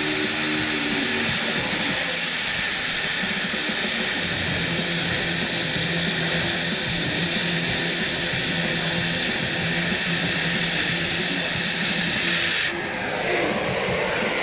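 Loud, steady hiss of rushing air or gas with a low hum beneath it, cutting off suddenly near the end.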